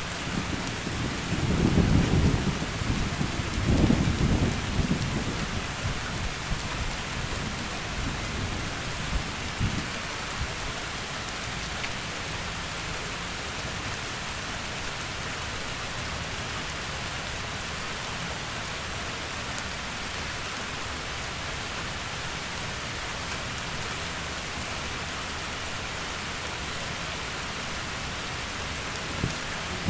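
Heavy rain falling steadily, with a deep rumble of thunder rolling through in the first few seconds and a fainter one about ten seconds in.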